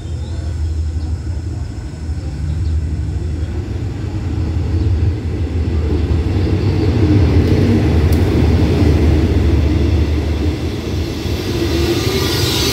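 Diesel locomotive of an arriving passenger train, its engine running with a steady low rumble that grows louder as it draws near. Near the end the coaches roll past, adding a rising hiss of wheels on the rails.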